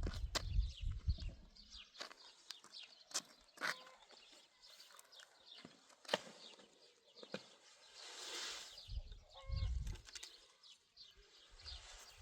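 Small birds chirping over and over, with scattered sharp knocks and a few low rumbles.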